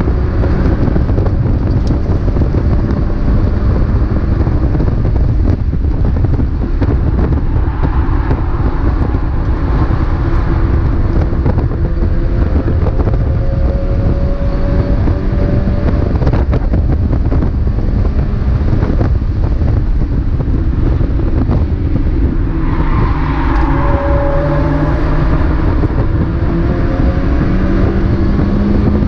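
Onboard sound of a Mazda MX-5 race car's four-cylinder engine at racing speed, revs repeatedly climbing and dropping through the gears, over steady wind and road noise.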